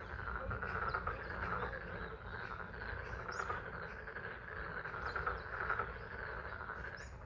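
A dense chorus of many frogs calling continuously at a pond, with a steady low rumble beneath and a few brief high chirps.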